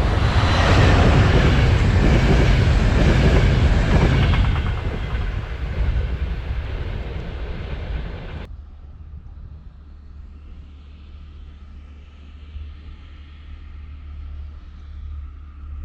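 A train passing close by, loud at first and then fading as it moves away. About halfway through, the sound cuts off suddenly to a quiet low rumble and wind.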